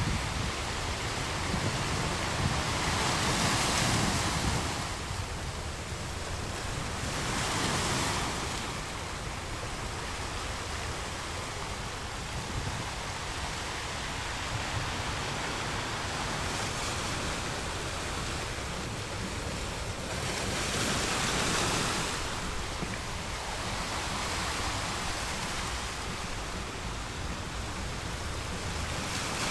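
Small waves breaking and washing up on the shore, a continuous surf wash that swells louder each time a wave breaks, with the biggest surges near the start and about two-thirds of the way through.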